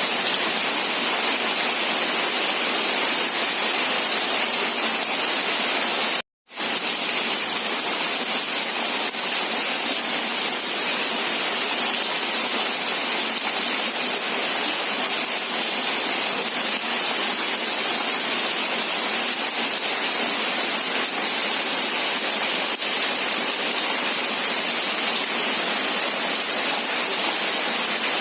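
Steady hiss of heavy rainfall, even and unbroken except for a brief total dropout to silence about six seconds in, after which it resumes unchanged.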